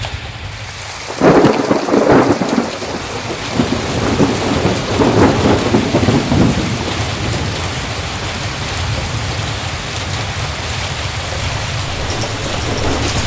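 A thunderclap about a second in, rolling on in uneven rumbles for about five seconds, over steady heavy rain.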